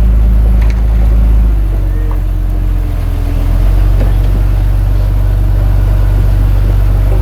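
Diesel engine of a Komatsu D21A bulldozer running steadily with a deep rumble, its note shifting about a second and a half in, with a few faint clicks over it.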